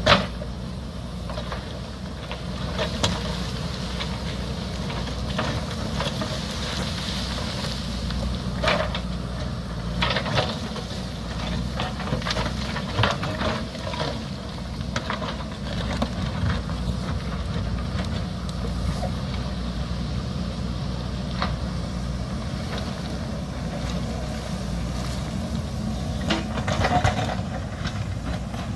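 JCB backhoe loader's diesel engine running steadily under load, with scattered knocks and scrapes of the bucket working against rock.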